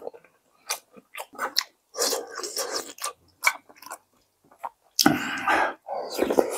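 A person chewing and biting soft dough pieces of perilla-seed sujebi soup, with wet, irregular mouth clicks and smacks. A longer, louder stretch of eating noise comes about five seconds in.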